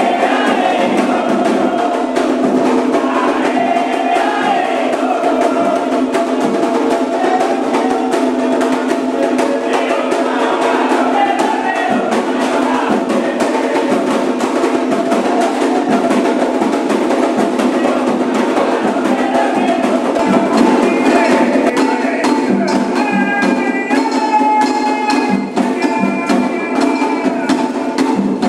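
Candomblé ritual songs sung by a group, with continuous drumming and percussion beating a steady rhythm.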